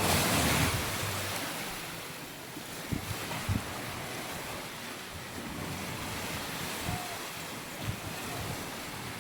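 Sea waves breaking and washing up on a sandy beach. The surge is loudest in the first second, then settles to a steady wash, with a few short thumps of wind on the microphone.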